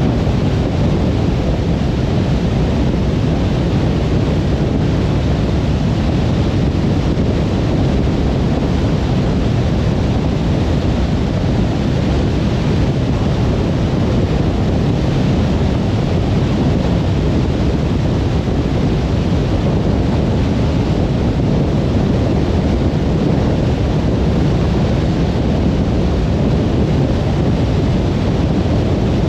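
Car travelling at steady speed on a motorway: a constant, even rush of tyre and road noise with wind, low and deep, with no changes.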